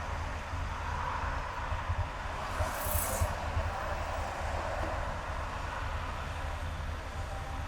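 Car driving on a highway: a steady low rumble of engine and tyre noise, with a brief high hiss about three seconds in.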